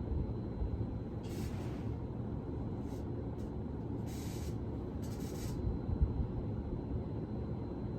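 Hampton Bay Rockport ceiling fan running, a steady low rumble of moving air. Several short bursts of hiss come between about one and six seconds in.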